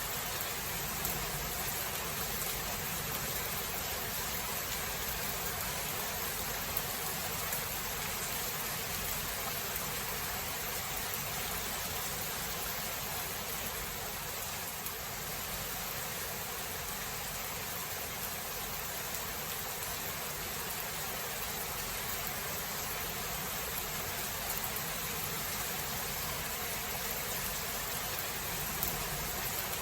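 Steady rainfall, an even hiss with no thunder clap or rumble standing out.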